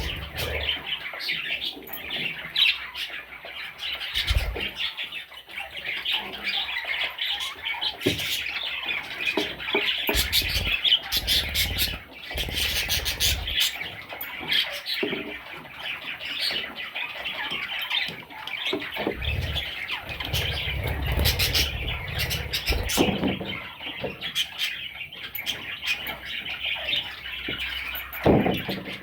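Budgerigar chicks and parakeets chirping and squawking continuously, with scattered scratches and low bumps from movement in the nest or cage.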